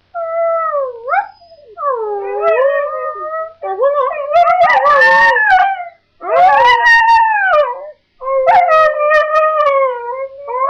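A year-old puppy howling: about five long, wavering howls that bend up and down in pitch, with short breaks between them. It is an attention-seeking howl that a vet found to be no sign of anything wrong.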